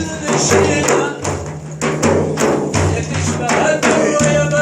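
A man's voice chanting an Arabic religious praise song (madih), accompanied by regular frame-drum and tambourine beats.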